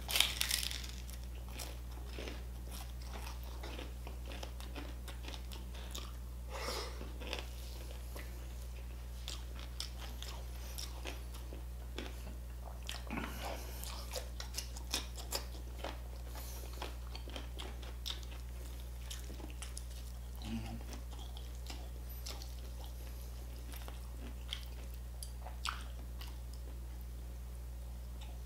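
Close-up mouth sounds of a person biting and chewing crispy fried pork belly with crackling skin, with a loud crunchy bite at the start and scattered crunches and chewing after it. A steady low hum runs underneath.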